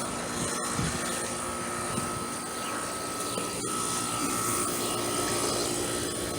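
Trane central air conditioner's outdoor condensing unit running steadily, the compressor and condenser fan giving an even whir with a faint constant tone over it.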